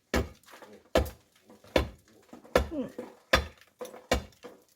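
Hammer blows, about six evenly paced strikes with a short ring after each, chipping the wall opening wider so the stove's flue pipe can pass through.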